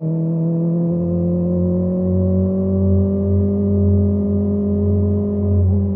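Kawasaki ZX25R's inline-four engine through a Yoshimura exhaust, pulling steadily under way with its pitch slowly rising, then easing off slightly near the end.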